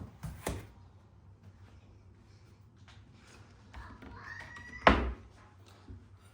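Kitchen cabinet doors being handled: light knocks near the start, then a brief squeak and a loud thunk as a door shuts about five seconds in.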